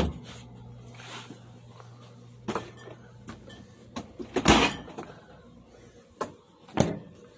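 Refrigerator drawers and doors being handled: a series of knocks and clunks as trays slide and doors shut, the loudest one about halfway through. A low steady hum stops at that loudest clunk.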